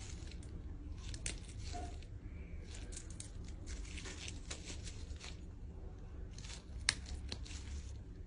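Irregular snipping, tearing and crinkling sounds of chicken feet being cut and pulled apart for deboning, with one sharper click near the end.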